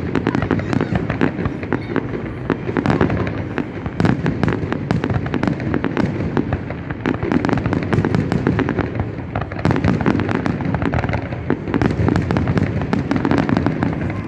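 Fireworks going off in a dense, continuous barrage: many sharp bangs and crackles overlapping with no pause.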